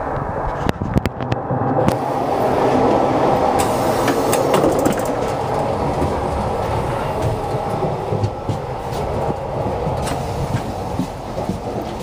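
Running noise of the Hokutosei sleeper train heard from inside a sleeper-car corridor: a steady rumble with scattered clicks and rattles.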